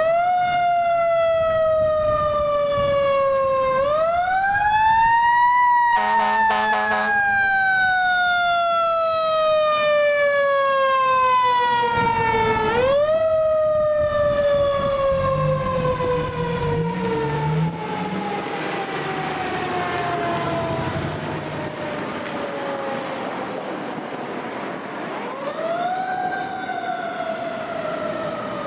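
Fire engine siren on an emergency response, winding up quickly and then slowly falling in pitch over many seconds, starting again about four seconds, thirteen seconds and twenty-six seconds in. A short pulsing blast cuts in about six seconds in, over the rumble of the apparatus.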